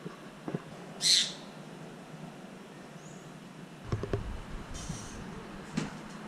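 Birds calling: a loud, harsh screech about a second in, a faint short chirp, and another screech at the very end. A few low knocks come around four seconds in.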